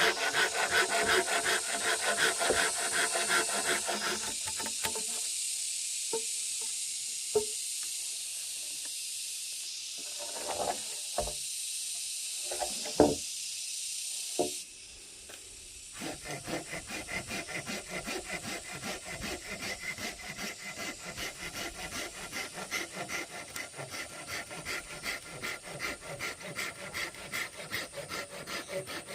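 Rapid back-and-forth rasping strokes of a hand tool working bamboo. The strokes stop for about ten seconds in the middle, where a few light knocks sound, then start again and run on steadily.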